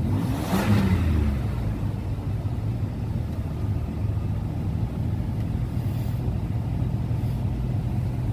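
Oldsmobile Cutlass Convertible's engine given a short rev about half a second in, then settling back to a steady idle.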